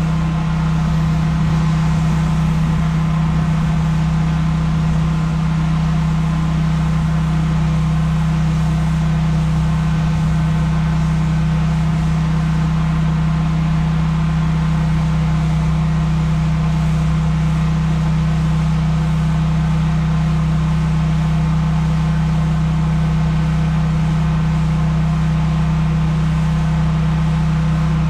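Pressure washer's engine running at a steady speed, a constant loud hum with a light hiss over it.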